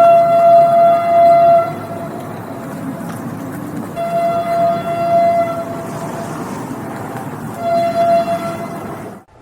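Train horn sounding three blasts over the rumble of a moving train: two long blasts and a shorter third, cut off abruptly near the end.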